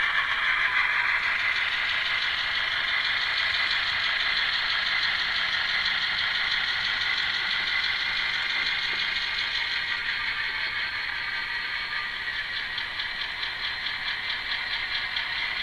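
Simulated EMD diesel prime mover sound from an ESU LokSound decoder, played through the tiny onboard speaker of an N scale Atlas GP38-2 model locomotive. It runs steadily and grows slowly quieter.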